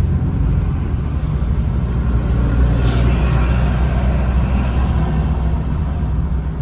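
Steady low rumble of engine and road noise in heavy city traffic, heard from inside a moving car, with a short sharp hiss about three seconds in.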